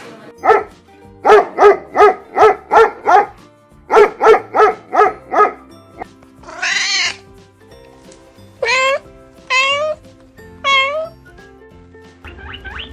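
A cat meowing over background music. Two quick runs of about six short meows come first, then four longer meows that rise in pitch.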